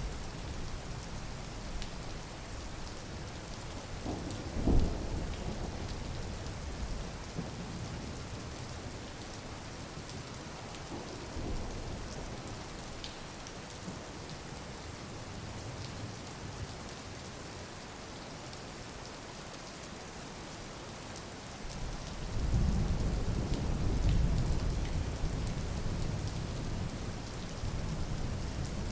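Steady rain falling, with a sharp low thump about five seconds in and a long low rumble of thunder through the last quarter.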